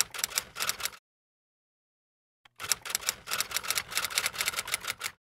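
Typewriter key clicks typing out text: a rapid run of strikes lasting about a second, a pause, then a longer run of about two and a half seconds.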